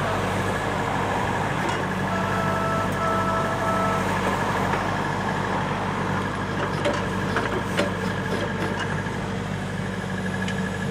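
Takeuchi TB290 compact excavator's diesel engine running steadily. A short, two-part high tone sounds about two seconds in.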